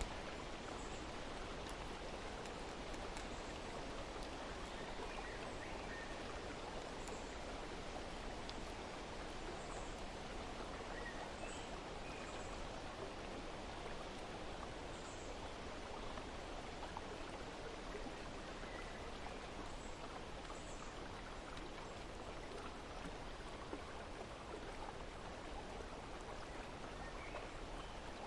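Steady rush of flowing water, with faint, scattered short bird chirps over it.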